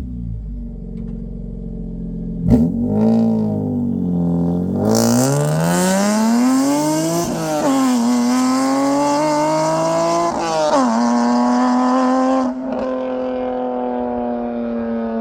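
BMW E46 M3's S54 inline-six through a Valvetronic exhaust, accelerating hard. The engine note climbs, dips twice at upshifts and climbs again, then settles to a steady, quieter note as the throttle is lifted near the end. A single sharp crack comes a couple of seconds in.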